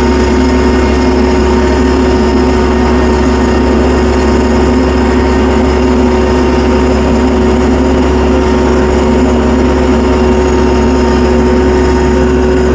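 Tractor engine running at a steady speed, an even drone with a constant held tone and no change in pitch.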